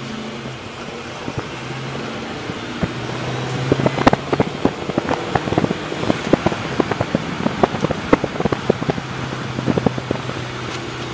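Ford Mustang GT's V8 running steadily through a MagnaFlow exhaust, with many sharp, irregular crackles and pops from about three seconds in until near the end.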